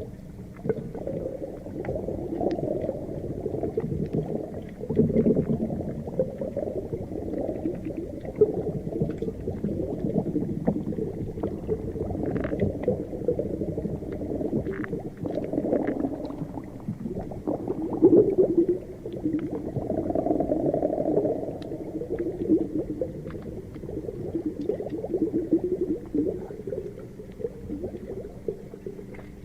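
Underwater ocean ambience: a continuous low, muffled bubbling and gurgling rumble of water, with a few faint ticks above it.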